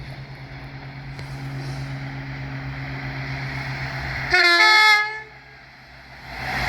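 An approaching train hums steadily and grows louder, then sounds a two-tone train horn about four seconds in: a short low note, then a higher one, lasting under a second. The train's rumble builds again near the end as it draws near.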